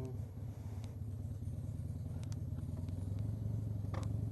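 Motorcycle engine running at low revs with a steady low rumble, and a few light clicks over it.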